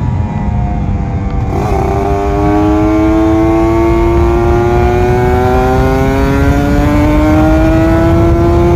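Kawasaki Ninja 150RR's two-stroke single-cylinder engine pulling hard under acceleration on the road. It changes gear a little under two seconds in, then its pitch climbs steadily as the revs build in the next gear.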